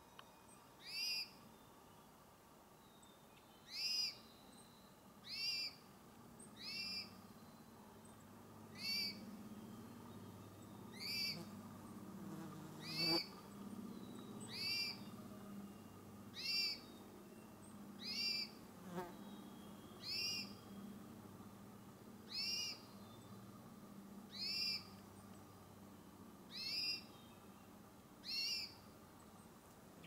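A small forest songbird repeating a short, sharp call about every two seconds, some fifteen times.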